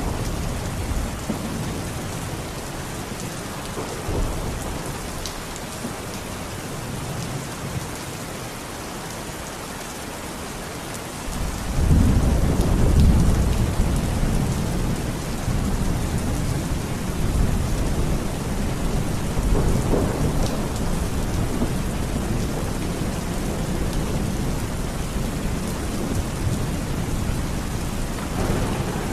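Steady rain falling, with low rolling thunder that swells up about a third of the way in and keeps rumbling under the rain.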